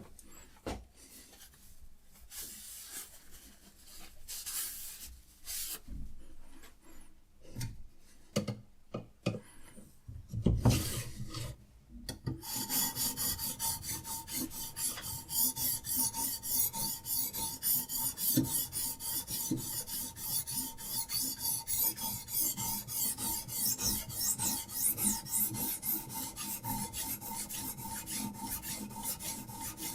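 A few scattered knocks and handling clatter, then a diamond sharpening stone on a Hapstone RS guided rod stroking steadily back and forth along a clamped knife blade's edge, about two to three strokes a second.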